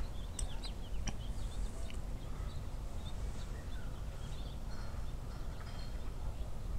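Faint, short high bird chirps scattered over a steady low wind rumble on the microphone, with a few sharp clicks in the first second or so.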